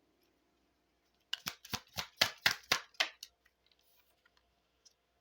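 Tarot cards being shuffled by hand: a quick run of about ten sharp card snaps, starting about a second in and lasting about two seconds, then a few faint ticks.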